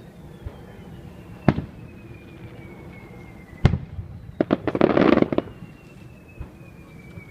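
Fireworks going off: a single bang about a second and a half in, another just before four seconds, then a rapid cluster of crackling pops lasting about a second.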